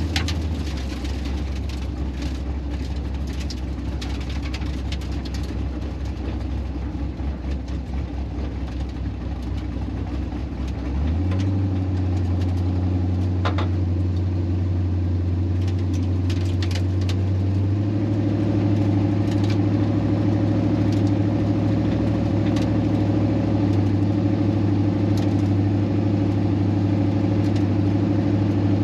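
LS V8 engine of a swapped Pontiac Firebird Trans Am running at a steady low speed. Its engine speed steps up abruptly twice, about eleven seconds in and again about seven seconds later, then holds steady.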